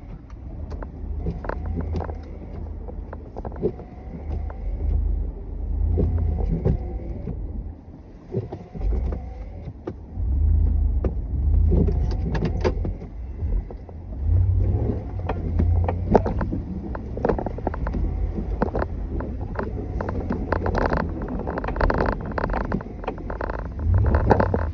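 Snow plow vehicle running with a low rumble that swells and fades, with frequent knocks and rattles over it.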